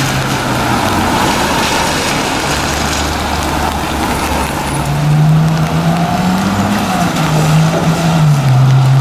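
A supercar's engine running with a steady low note that grows louder about halfway through, rises briefly in pitch and then settles back down.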